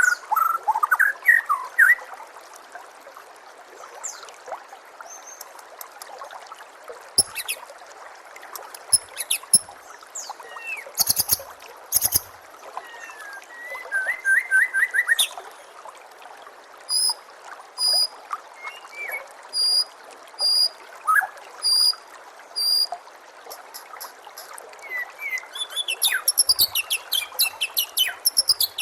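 Songbird calls from a white-rumped shama training recording: varied chirps and whistles. In the middle, a run of sharp high notes repeats about once a second, and a rapid burst of notes comes near the end. Under them runs a steady trickling-water background.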